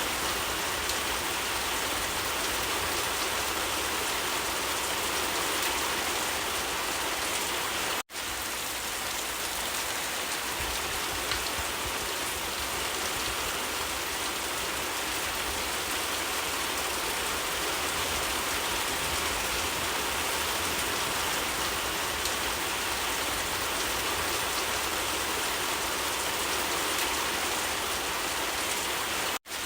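Steady, heavy rain falling. The sound cuts out for an instant twice, about eight seconds in and again near the end.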